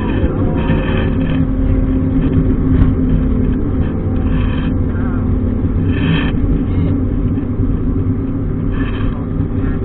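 Car engine running steadily as the car drives on a race circuit, heard from inside an open-top cabin with wind and road noise.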